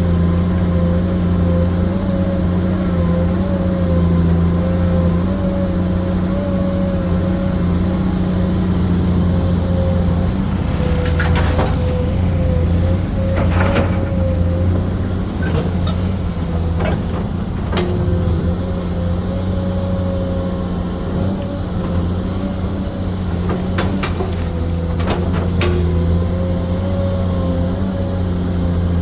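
Komatsu PC210 excavator's diesel engine running steadily with a wavering whine above it, and several sharp clanks and knocks, mostly in the middle and later part.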